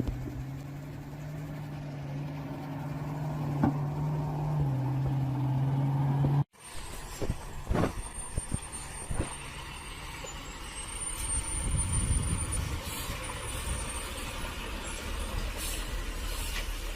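Heavy truck engine running steadily. It cuts off abruptly, followed by a few sharp knocks over a lower engine rumble.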